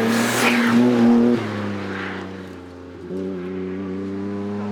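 Hillclimb race car engine running at high, steady revs close by, with a rush of noise over the first second. The sound falls away about a second and a half in, then picks up again at a slightly higher note near the middle.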